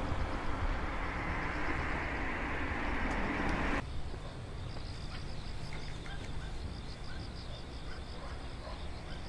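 A train running on the track, an even rumble and hiss that ends abruptly about four seconds in. After that it is quieter, with a high chirping in quick, regular pulses.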